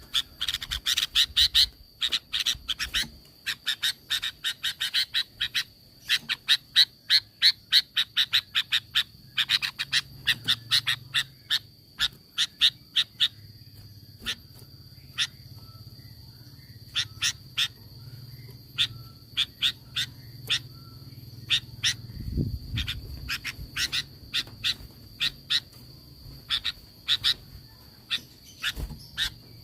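Sooty-headed bulbul (kutilang) giving rapid runs of short, sharp calls, several a second, in bursts with short pauses between them, over a steady high-pitched tone.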